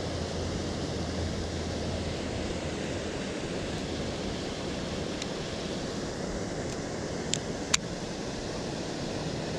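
Steady outdoor noise like wind on the microphone, with a low hum fading out in the first few seconds and two sharp clicks a little over seven seconds in.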